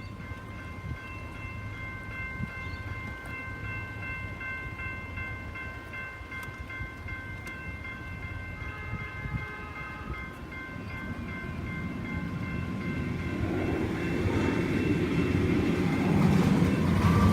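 Level crossing electronic bells ringing steadily at an active tram crossing. A tram's rumble rises over the last few seconds as it approaches and passes.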